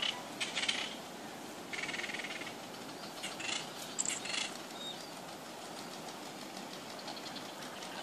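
Birds giving short, rapid rattling calls in four quick bursts in the first half and once more, fainter, near the end, over a steady background hiss.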